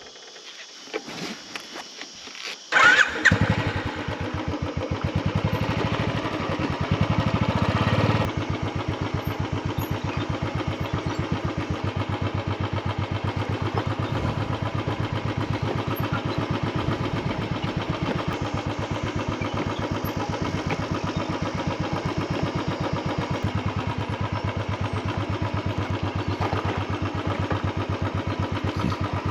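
Motorcycle engine starting about three seconds in, then running with an even beat, a little louder for the first few seconds before settling to a steady lower level.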